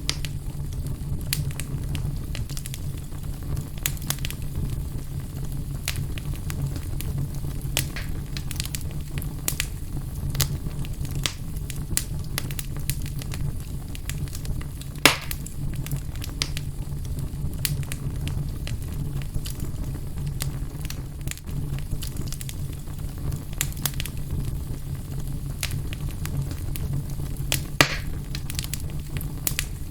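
Fire in a fireplace burning with a steady low rumble and scattered crackles, with a louder single pop about halfway through and another near the end.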